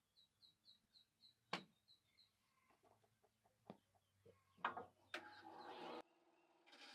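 Faint outdoor ambience: a small bird repeats a short, high chirp about five times a second for about two seconds. A few soft knocks and clicks are scattered through.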